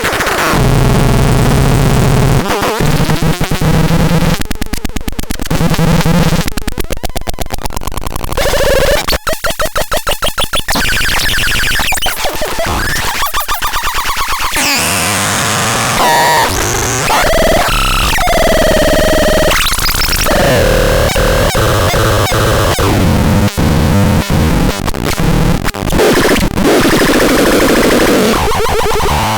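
Harsh electronic noise from the Mulbeek sound device: buzzy tones that switch abruptly every second or two, a fast stuttering pulse about a third of the way in, and swooping pitch sweeps past the middle.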